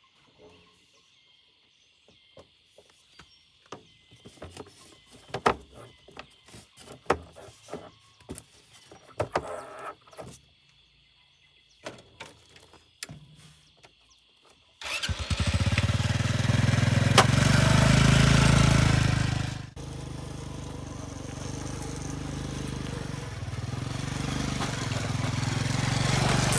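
Scattered clicks and knocks, then about halfway through a small engine starts abruptly and runs loudly. After about five seconds it drops to a lower level and keeps running steadily, slowly growing louder.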